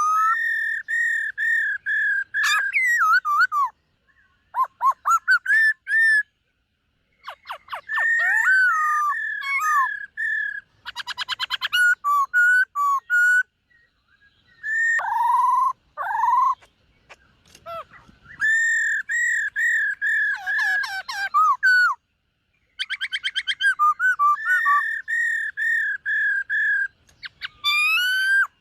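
Black-throated laughingthrush singing: clear whistled phrases and fast trills with swooping glides. The song comes in bursts of a few seconds each, separated by short pauses.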